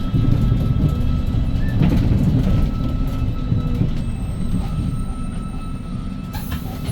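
Hyundai Green City city bus under way, heard from inside the cabin: a steady low rumble of its CNG engine and the road, easing slightly in level toward the end, with a short high hiss near the end.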